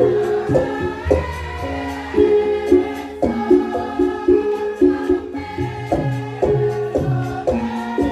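Javanese gamelan music for a lengger dance: struck pitched metal notes in a repeating interlocking pattern with drum strokes, under a sung vocal line that glides up and down.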